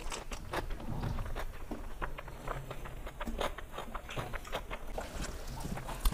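Close-up eating sounds of rice and curry eaten by hand: chewing with scattered wet mouth clicks and lip smacks.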